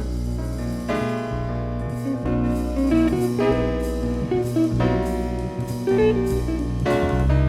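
Live small-group jazz playing: piano chords over a walking double bass, with the drum kit coming in, from an off-air cassette recording of a radio broadcast.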